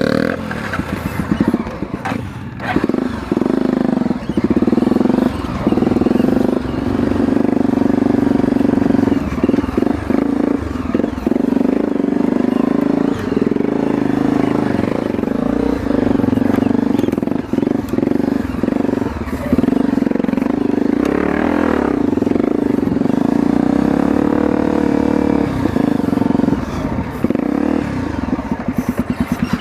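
Off-road motorcycle engine running steadily under way on a dirt trail, with short knocks and rattles over the rough ground. Near the end the engine note turns into a fast, even pulsing.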